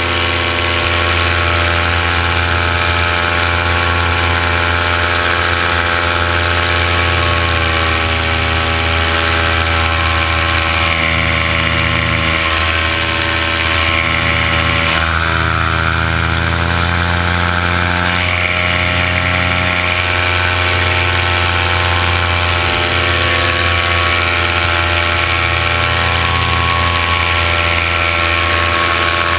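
Multirotor drone's motors and propellers humming steadily, the pitch wavering slightly up and down through the middle as the motor speeds change.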